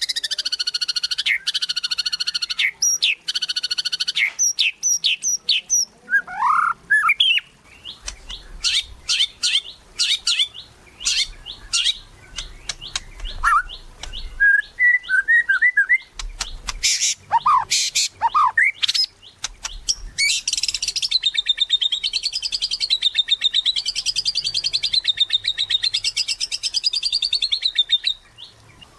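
White-rumped shama (murai batu) singing loudly and continuously in full song, a varied run of fast rattling trills, rising and falling whistled notes and quick clicking bursts, then a long wavering trill that stops shortly before the end.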